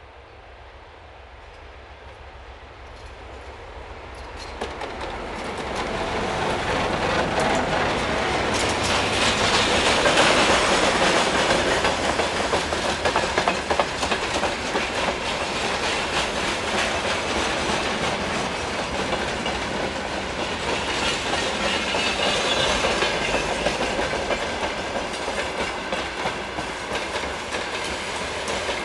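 A freight train hauled by a 2M62U two-section diesel locomotive approaches, growing steadily louder over the first ten seconds. It then passes close by, its wagons' wheels clattering rhythmically over the rail joints.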